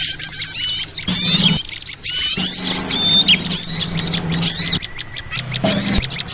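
Small songbirds calling in a dense, overlapping chorus of quick, high chirps and short twittering notes, played as a lure recording for trapping small birds. A low steady hum sits beneath at times.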